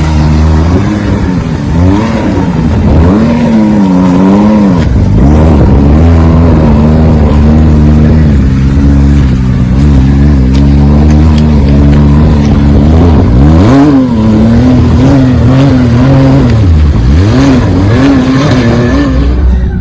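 Off-road vehicle engine revving, its pitch rising and falling over and over, with a few deep drops in revs along the way.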